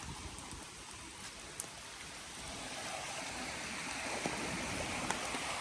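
Steady rain falling, with rushing creek water beneath it and a few sharp drop ticks; the water noise grows gradually louder through the second half.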